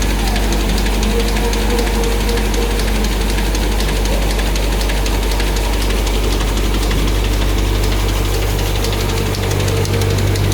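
Automatic pull-out tissue folding machine running steadily: a deep, constant machine hum with fast, fine clicking from the folding mechanism. The low hum changes pitch about nine seconds in.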